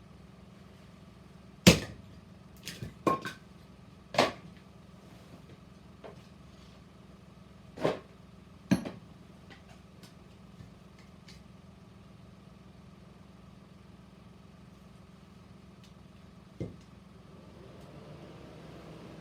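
Sharp wooden strikes of firewood being split: a loud crack about two seconds in, a quick cluster of knocks around three seconds, single strikes near four, eight and nine seconds, and one softer knock near the end.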